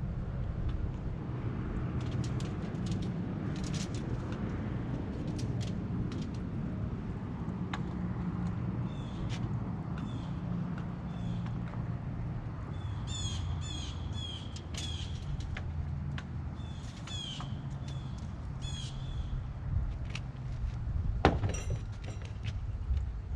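Birds calling over and over in short repeated calls, over a steady low rumble, with scattered clicks and one sharp knock near the end.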